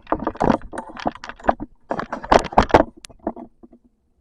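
Rapid, irregular clattering and rustling from something being handled at a window, thinning out near the end.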